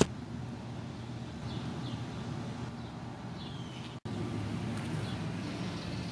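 Outdoor background: a steady low rumble like distant traffic, with a few faint, short bird chirps in the first few seconds. The sound drops out for an instant about four seconds in.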